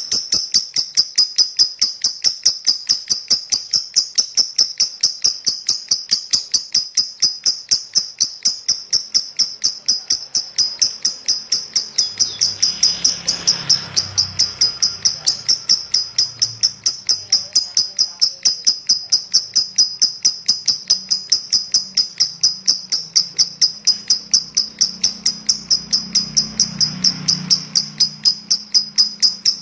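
Lovebird chattering in its long 'ngekek' song: an unbroken run of rapid, high-pitched chirps, several a second, at an even pace throughout. A faint low hum sits underneath from about halfway in.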